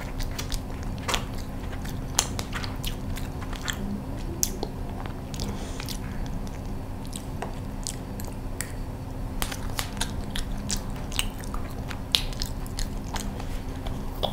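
Close-miked chewing of cold sponge cake topped with cheese, crushed salted egg and pork floss, with many small scattered clicks and smacks of eating.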